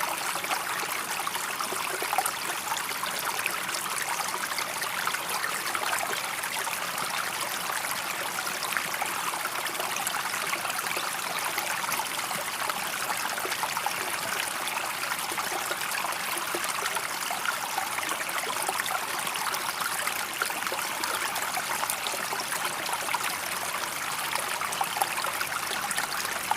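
Steady rush of flowing, splashing water, unchanging throughout.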